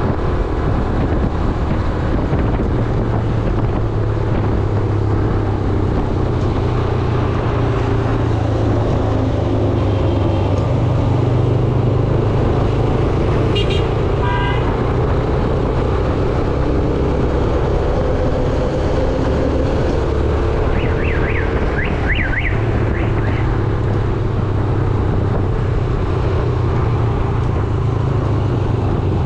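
Yamaha YBR 125G's single-cylinder four-stroke engine running steadily under way, with road and traffic noise around it. A short run of rapid beeps comes about fourteen seconds in, and a warbling horn from another vehicle sounds briefly a little after twenty seconds.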